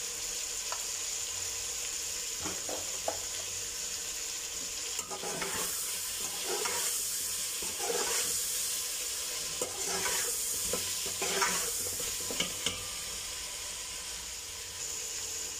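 Chicken and spices sizzling in oil in a metal cooking pot. From about five seconds in, a slotted metal spoon scrapes against the pot in repeated stirring strokes, roughly one a second.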